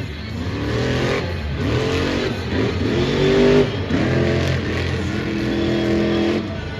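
Monster truck's methanol-burning, supercharged engine revving hard, its pitch climbing and dropping several times over a few seconds.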